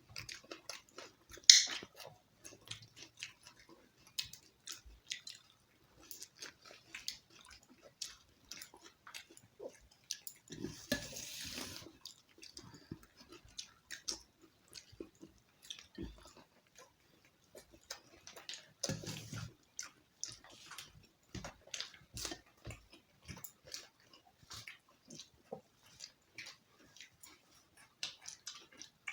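People chewing and eating roti with chicken curry: a steady run of short wet mouth clicks, with a longer noisy stretch about eleven seconds in and another around nineteen seconds.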